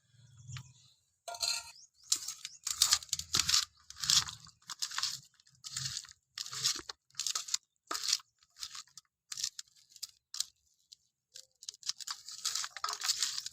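Small chelwa fish being mixed with salt and turmeric, a run of irregular crunching, squishing strokes about one or two a second.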